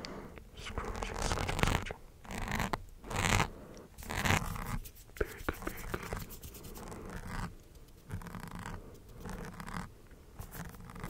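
Close-miked ASMR trigger sounds: irregular scratching and rustling strokes, each lasting about half a second to a second, with scattered sharp clicks.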